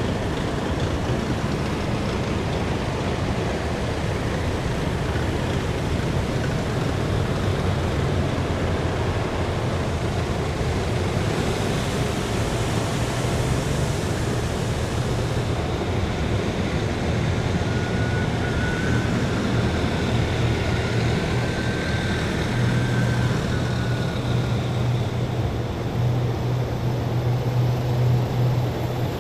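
A column of heavy military vehicles driving past, a steady diesel engine drone with road and tyre noise. A hiss rises for a few seconds in the middle, and the low engine hum grows stronger near the end as a louder vehicle comes by.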